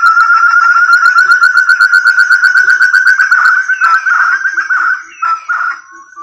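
Forest quail (puyuh hutan) lure call: a loud, rapid trill of whistled notes held at one pitch. It falters and breaks up about five seconds in, then starts again.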